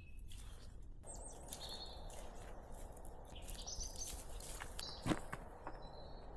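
Forest birds chirping in short scattered calls over a steady soft background hiss, with one sharp snap about five seconds in.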